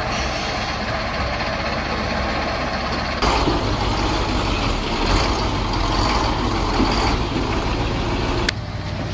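Heavy truck's diesel engine running, with steady low hum and rumble; the sound jumps louder and rougher about three seconds in and drops back abruptly near the end, as the footage cuts between shots.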